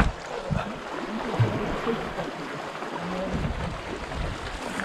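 Wind gusting over the microphone, with the sea washing against the rocks underneath.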